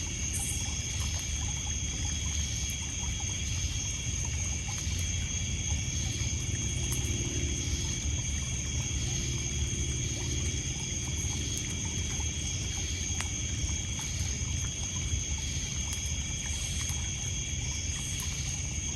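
Outdoor night ambience by a lake: a steady high chorus of crickets and other insects at several pitches, over water lapping and splashing on a pebble beach. A campfire crackles now and then with a few faint clicks.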